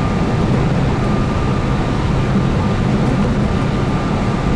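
Keihan 8000 series electric train running at speed: a steady rumble of wheels on rail and traction motor drone, with a thin steady high tone.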